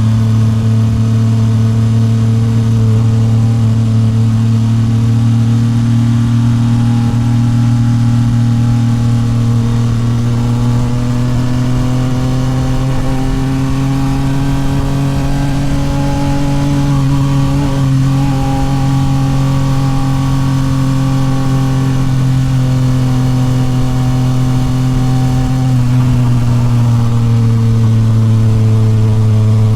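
Yamaha MT-09 SP's three-cylinder engine breathing through a Toce full exhaust, running steadily on the move. Its revs climb slowly about a third of the way in, hold, then drop back near the end.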